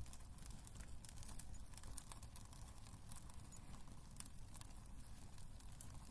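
Wood burning in a fireplace, crackling with irregular sharp pops and snaps over a low steady rumble.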